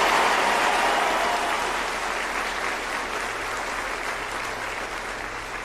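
Audience applause, steadily fading away.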